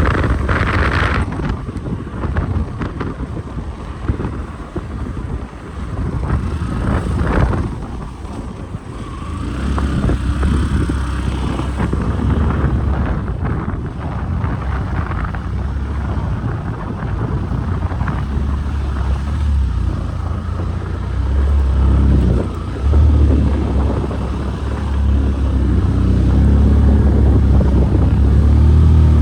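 Vehicle engine and road noise with wind on the microphone, a deep rumble that grows heavier about a third of the way in.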